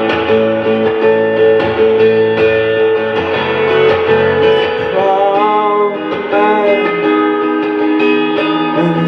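Live music: an acoustic guitar strummed steadily, playing a song's opening, with a voice starting to sing over it about halfway through.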